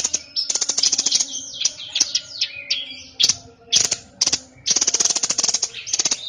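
A songbird of the kind Indonesian keepers call a 'sniper' bird, singing loudly. Long bursts of rapid, buzzy trills alternate with short whistled and slurred notes, and three quick sharp phrases come in the middle.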